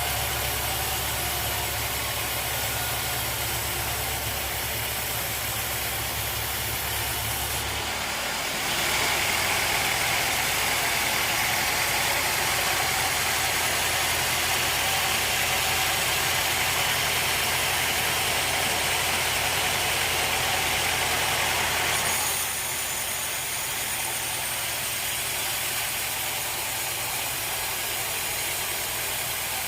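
Sawmill machinery running steadily. From about eight seconds in it grows louder and hissier for roughly fourteen seconds, then settles back to a steadier hum.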